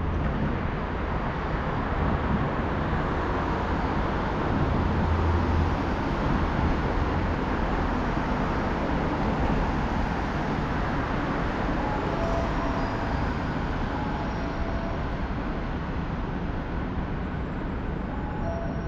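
Steady rushing cabin noise of a jet airliner, with a heavy low rumble that eases after about seven seconds.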